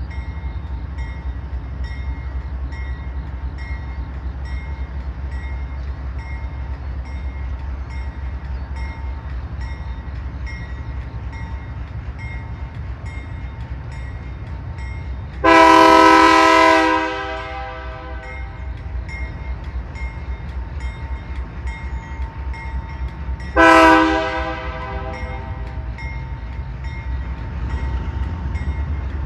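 Diesel locomotive horn sounding a long blast, then a short blast about eight seconds later, over the steady low rumble of the passing train. The long blast trails off as it echoes away.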